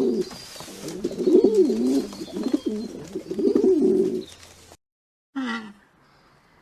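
Low, warbling bird coos, several overlapping calls gliding up and down in pitch. They stop about four and a half seconds in, followed by one short, brighter call.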